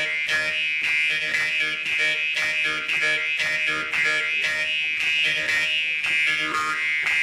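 Jaw harp played in a fast, rhythmic pattern: a steady buzzing drone with bright overtones that shift in pitch above it, plucked several times a second.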